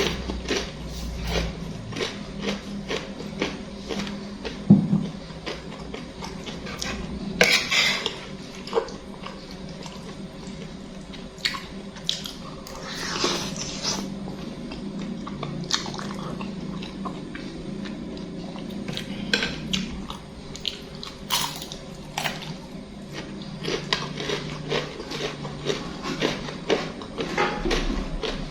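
Cutlery clicking and scraping against a bowl while eating instant noodles, with a few longer wet slurping sounds, the biggest about a third and halfway through.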